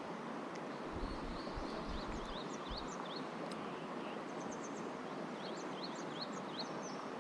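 Steady rush of a mountain stream, with a small bird chirping repeatedly over it in quick runs of high, sweeping notes. A few low bumps come between one and three seconds in.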